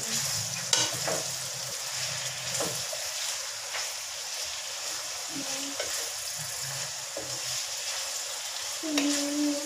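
Chicken and sliced vegetables sizzling in oil in a wok over a medium flame, stirred with a spoon that scrapes and knocks against the pan now and then.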